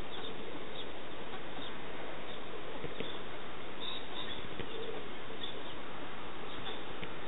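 Steady background hiss with a few faint, brief high bird chirps scattered through it.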